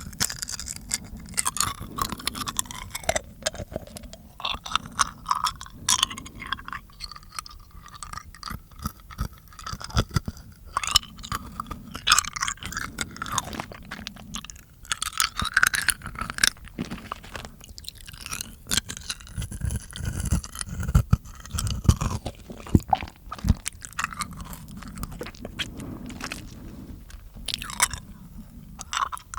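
Close-miked mouth sounds: wet clicks, smacks and crunchy chewing-like noises in quick, irregular succession.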